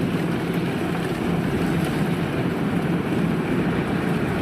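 Kubota DC-93 combine harvester's diesel engine running steadily under load in the rice field.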